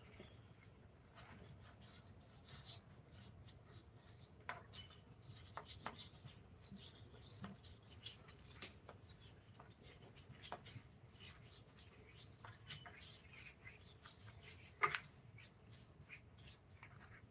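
Near silence with faint, scattered light taps and scrapes, and one sharper tap about fifteen seconds in.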